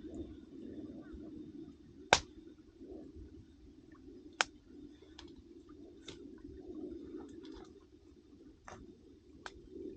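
Wood campfire crackling: sharp pops from the burning firewood, the loudest about 2 s in and another about 4.5 s in, with fainter crackles after, over a low steady rumble.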